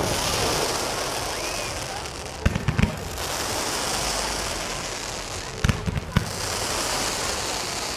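Fireworks going off: a steady crackling hiss, with sharp bangs in quick pairs about two and a half seconds in and again around six seconds in.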